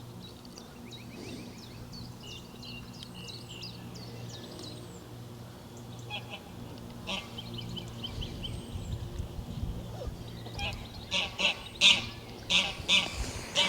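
Geese honking, a run of loud repeated calls in the second half, over small birds chirping and a steady low hum.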